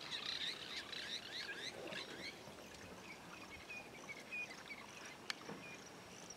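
Birds calling: a flurry of quick chirps in the first two seconds, then scattered short whistled notes. A single sharp click comes about five seconds in.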